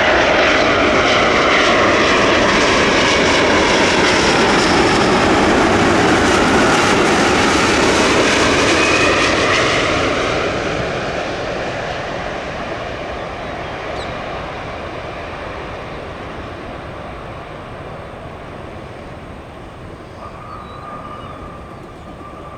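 Jet airliner engines passing close at high power, with whining tones that bend downward. The noise stays loud for about ten seconds, then fades steadily as the aircraft moves away.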